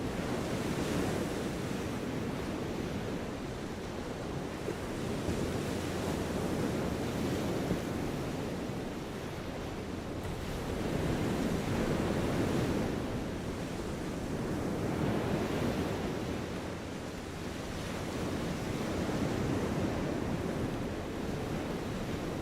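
Steady rushing noise, heaviest in the low and middle range, swelling and easing every few seconds.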